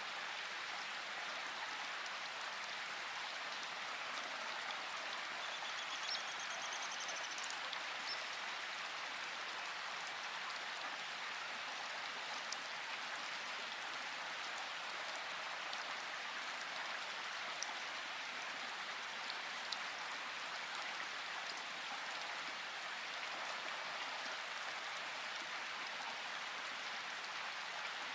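Steady rain in a forest: an even hiss with scattered louder drops. A brief high trill sounds about six seconds in.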